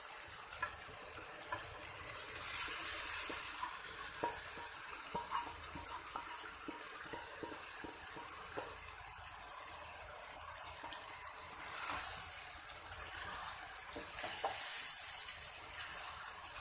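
Pieces of raw liver frying in the onion-tomato masala in hot oil, a steady sizzling hiss, with a spoon stirring and clicking against the pan. The sizzle swells louder a few seconds in and again about twelve seconds in.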